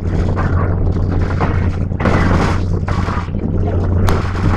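Interior of a moving Philippine National Railways locomotive-hauled commuter train: a steady low drone with rumbling running noise from the wheels and rails. About two seconds in there is a brief louder rush of noise, and a sharp click near the end.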